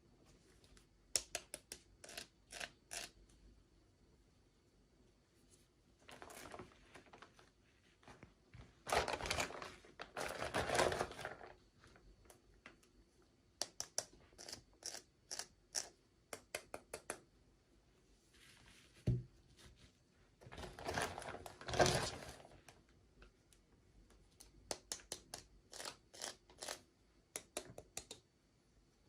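Hands opening toy packaging: plastic and paper crinkling and tearing in two longer rustling stretches, between runs of small sharp clicks and taps.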